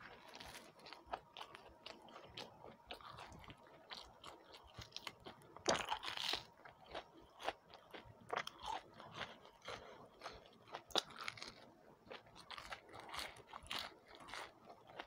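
Close-miked mouth sounds of a person biting and chewing a kakra pitha, a deep-fried cake: a stream of small crunches and chewing clicks, with the loudest crunch about six seconds in.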